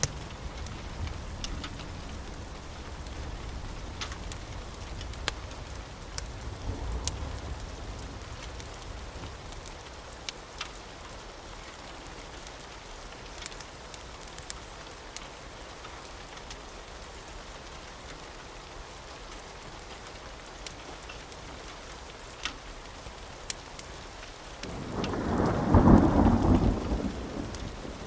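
Steady rain falling, with scattered sharp ticks and a low rumble of thunder in the first few seconds. Near the end a loud thunderclap breaks and rolls for a couple of seconds.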